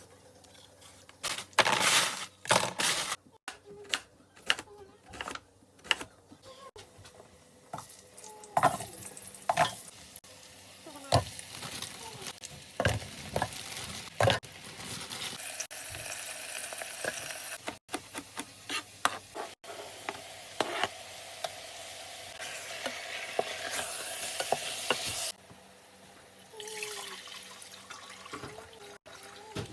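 Kitchen cooking sounds: a utensil clinking and knocking against a pan and dishes, stirring onions that are sautéing in coconut oil. Past the middle a steady hiss sets in, then cuts off suddenly, followed by a few more knocks.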